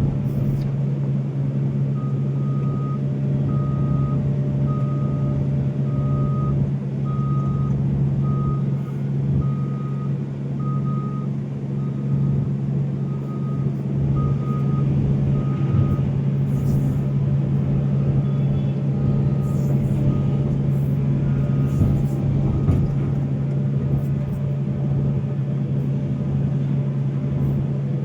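Volvo excavator's diesel engine running steadily under work, while a reversing alarm beeps about once every second, starting a couple of seconds in and fading away after the middle. A few faint knocks come near the end.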